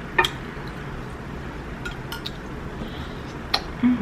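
A few sharp, isolated clicks and clinks of king crab shell and tableware while picking meat from king crab legs, spread about a second or more apart. A brief hum-like voice sound comes near the end.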